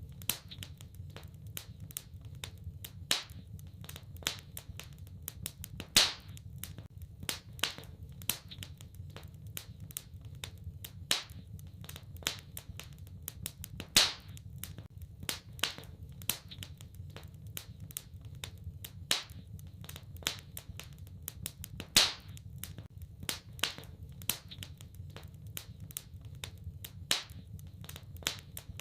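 Wood fire crackling in a fireplace: irregular sharp pops and snaps over a low steady rumble, with a louder pop about every eight seconds.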